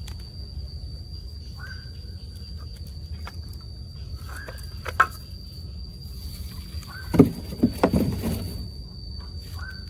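A steady high insect-like trill over a low background rumble, with a short call repeating about every two and a half seconds. A sharp click about halfway through, then a cluster of louder knocks and clatter about seven to eight seconds in.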